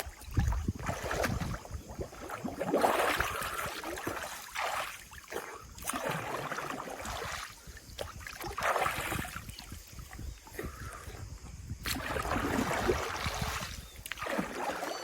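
Water sloshing and splashing in irregular surges, with low bumps of movement against the microphone.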